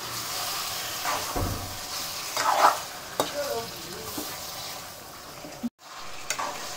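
Raw chicken pieces and sliced onions sizzling in oil in a kadai while being stirred with a spatula, which scrapes and knocks against the pan every so often. The sound cuts out for an instant near the end.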